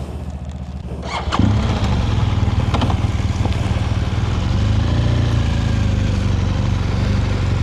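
A motorcycle engine starts about a second and a half in and settles into a steady idle, over another engine that is already idling.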